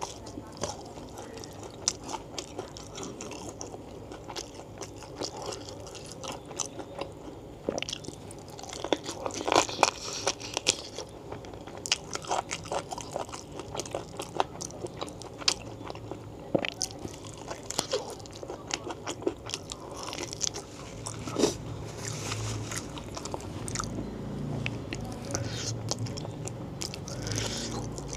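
Close-miked eating: wet chewing and bites of battered fried tempeh and soft, gelatinous beef-foot tendon in spicy curry sauce, with many sharp crackly clicks, loudest about ten seconds in.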